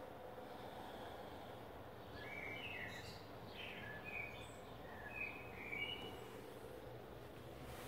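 Faint outdoor background noise with a steady low hum, and a string of short bird chirps from about two seconds in until past six seconds.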